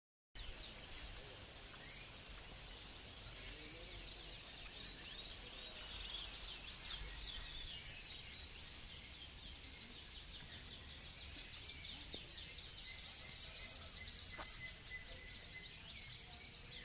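Many caged songbirds singing at once in dense, rapid chirps and trills, over a steady low rumble.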